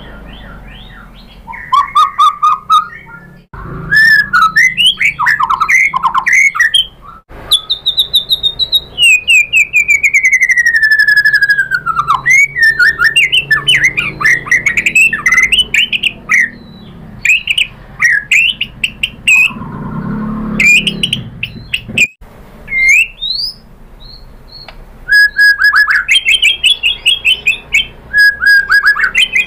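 White-rumped shama singing a varied song of whistled phrases and rapid chattering notes, with a long falling whistle about nine seconds in.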